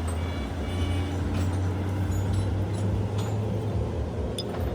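An engine running steadily with a low, even drone. A light click sounds near the end.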